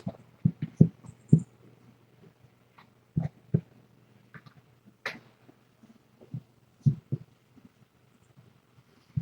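Irregular soft thumps and knocks, about a dozen spread unevenly, over a steady low hum.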